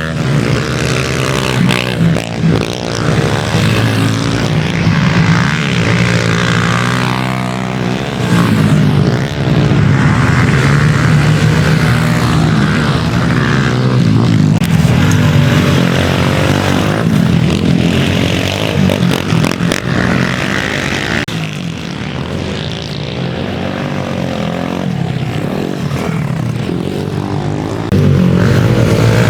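Pit bike engines revving up and down as the bikes race around a track, several engines overlapping. The sound gets suddenly louder near the end.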